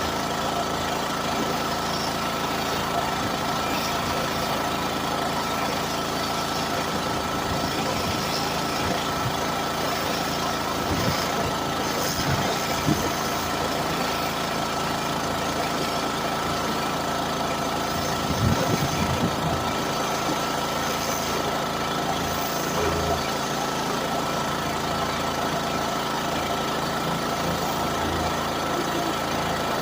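Pressure washer running steadily: an engine drone with a constant high hum and a hiss of spray. A few brief low knocks come about halfway through.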